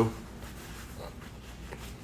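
A few faint, light ticks and taps, about a second in and again near the end, over a low steady room hum.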